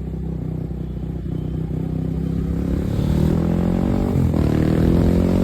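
Motorcycle engine accelerating while riding, its pitch climbing steadily, dropping briefly about four seconds in and climbing again, over a low rumble.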